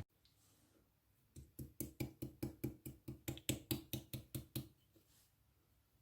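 Slime being squeezed and poked by hand, making a rapid run of soft clicking pops at about five a second that starts after a second and a half and stops a little over a second before the end.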